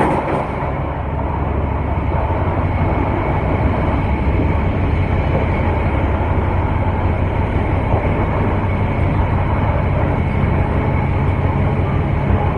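Passenger train running steadily along the line, a continuous low rumble of the carriage and wheels on the rails.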